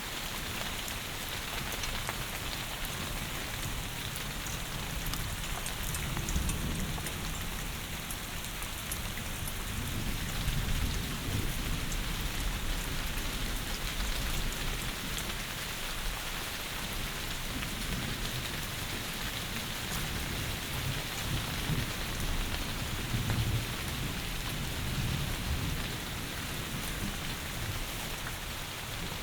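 Heavy rain pouring steadily, a dense even hiss, with a few low rumbling swells underneath about six, ten and twenty-three seconds in.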